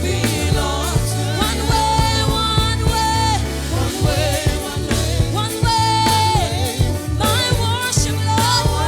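Gospel worship song: a singer's voice holding long notes over a band with a stepping bass line and drums.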